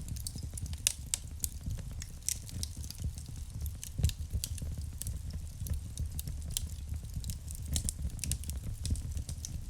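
Wood fire burning in a fireplace: irregular sharp crackles and pops over a steady low rumble of the flames, with a louder pop about four seconds in.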